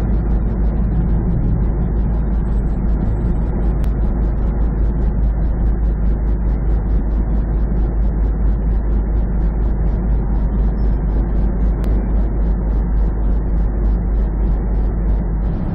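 Steady in-cab drone of a semi truck driving on the highway: deep diesel engine rumble and road noise, with faint, even ticking about three times a second.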